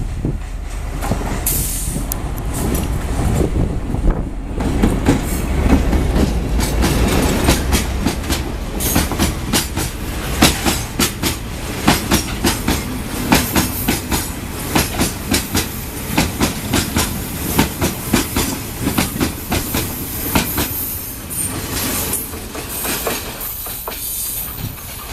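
Coal freight train hauled by an R50 diesel-electric locomotive rolling past. A heavy low rumble fills the first several seconds, then the wagons' wheels give a rapid, steady clickety-clack over the rail joints.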